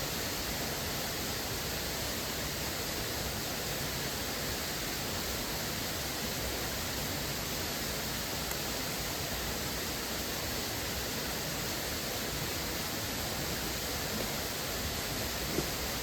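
Steady, unbroken rush of a waterfall and mountain stream.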